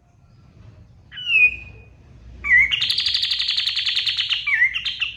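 Kapas tembak bulbul singing: a clear whistle that drops in pitch, then a long, fast trilling phrase with swooping notes, the loudest part of the song.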